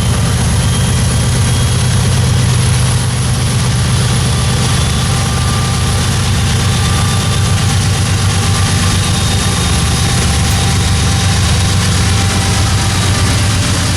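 Norfolk Southern train's diesel locomotives running by in a loud, steady low drone, with rail noise over it.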